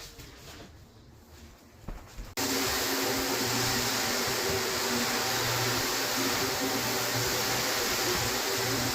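Electric floor machine's motor running steadily, a hum over rushing air. It starts abruptly about two and a half seconds in, after a quieter stretch.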